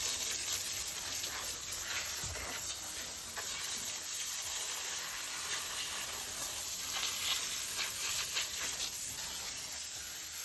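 Scraping and scratching at hard-caked mud in a mini excavator's compartment: a run of short rasping strokes over a steady hiss.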